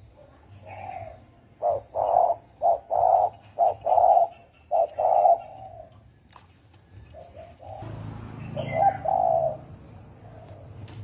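Spotted dove cooing, a quick run of short, deep coos followed by a pause and two more coos near the end. A low rumble and a thin high steady tone come in about eight seconds in.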